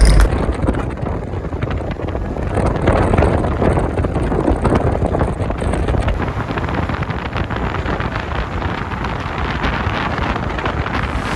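Wind buffeting the microphone: a steady, rushing noise that swells and falls without pause.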